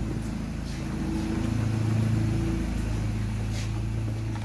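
Mini Cooper S R53's supercharged 1.6-litre four-cylinder idling steadily as it warms up to temperature, freshly fitted with a new timing chain assembly. The idle swells slightly about a second and a half in and settles back.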